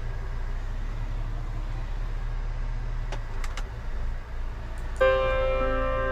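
Engine running steadily with a low, even drone, with a few sharp clicks about three seconds in. Piano music comes in about five seconds in.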